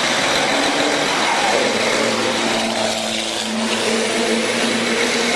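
Diesel engines of Fórmula Truck racing trucks running on the circuit. An engine's pitch falls about a second in, as if a truck is passing, and then a steady engine note holds.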